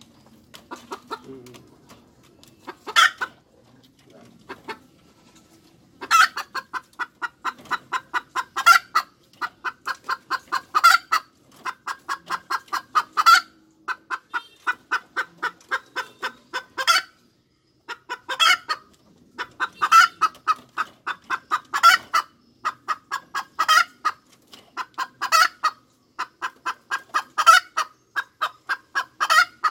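Hen cackling: fast runs of short clucks, each run ending in a louder, drawn-out squawk, repeating about every two seconds. It starts in earnest about six seconds in, after a few quieter calls.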